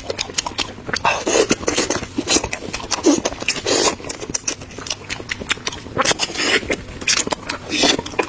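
Close mouth noises of someone eating fried chicken: chewing and lip-smacking, a fast, uneven run of wet clicks with a few louder noisy bursts.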